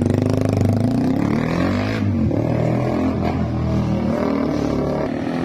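Suzuki Raider 150's single-cylinder four-stroke engine running through an aftermarket SC Project muffler, its revs rising and falling.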